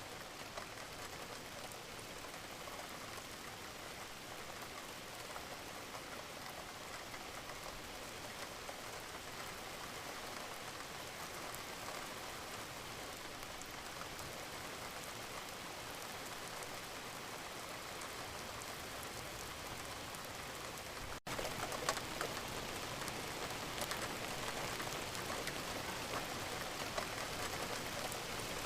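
Wood fire crackling steadily, a dense hiss with many small pops. About 21 s in the sound cuts out for an instant, then comes back a little louder, with more pops.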